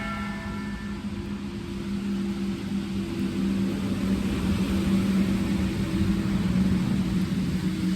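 Car engine and road noise heard from inside the cabin while driving: a steady low hum over a rumble that grows louder a few seconds in.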